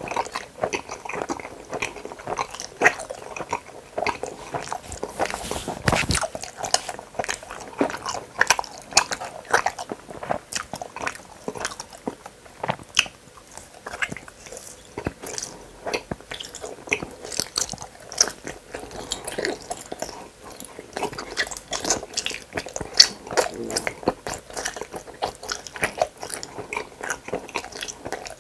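Close-miked chewing and biting of gummy hamburger candies: a steady run of short, sharp mouth clicks and smacks.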